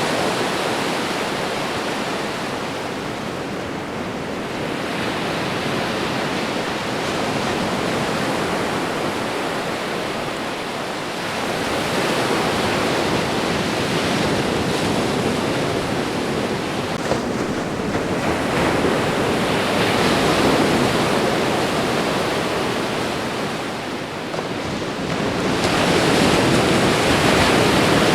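Ocean waves washing onto a shore, a steady rush of surf that swells and eases every several seconds.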